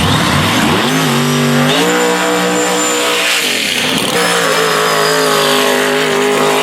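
Drag race car's engine revving up and holding at a steady high pitch for about a second and a half, dropping away, then revving up again and holding high for about two seconds.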